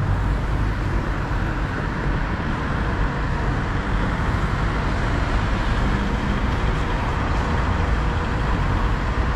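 Road traffic noise: a steady rumble and hiss of passing cars and buses, with no distinct events.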